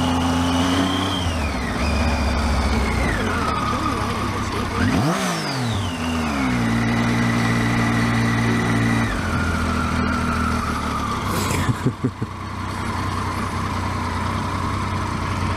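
Triumph Tiger motorcycle engine running under way, its note holding steady and then stepping to a new pitch several times as gears change, with a brief rise and fall in pitch about five seconds in. A few short knocks come near twelve seconds.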